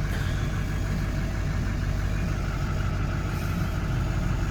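Diesel pickup engine idling steadily, a low, even rumble.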